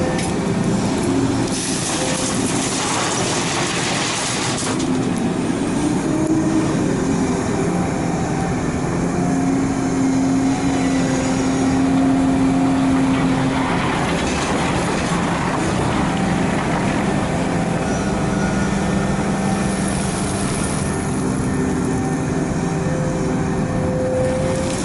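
Large excavator's diesel engine and hydraulics working under changing load as it digs and swings, the engine pitch rising and falling, with a couple of stretches of added hiss and rushing noise.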